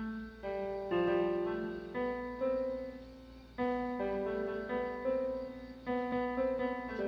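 Piano playing a slow melody, a new note or chord struck about once a second and each left to ring and fade.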